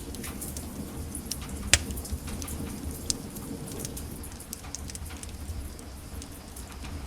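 Wood fire crackling in a fireplace: many small irregular crackles over a low steady rumble of flames, with one sharp loud pop a little under two seconds in and another about a second later.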